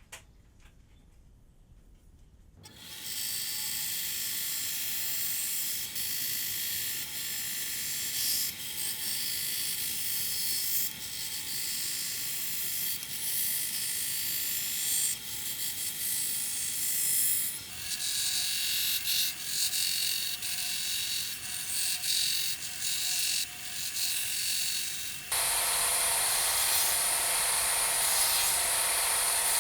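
An electric power tool running on wood, starting about two and a half seconds in. Its sound turns louder and harsher near the end.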